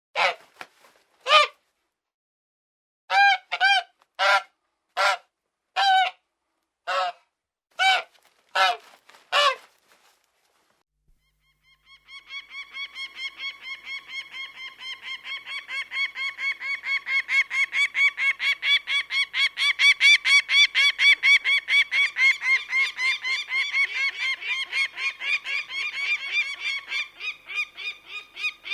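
A goose honking: about eleven separate, loud honks spaced roughly half a second to a second apart. After a short pause comes a long run of rapid, evenly repeated calls, about four a second, that grows louder, then eases off before it stops.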